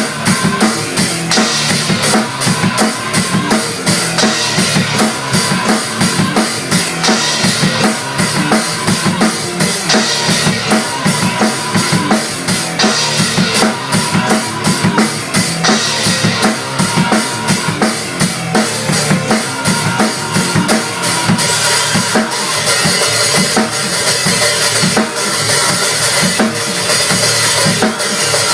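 A drum kit played hard and busily, with kick and snare hits packed close together, over loud rock music.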